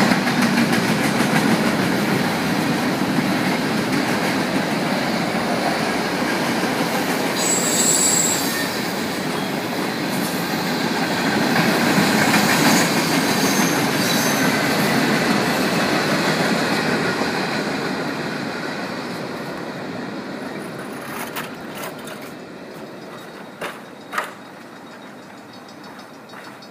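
Union Pacific freight cars (boxcars and tank cars) rolling past on the rails with a steady rumble, with brief high-pitched wheel squeal about eight seconds in and again a few seconds later. The rolling fades away over the last third as the end of the train passes, with a couple of sharp knocks near the end.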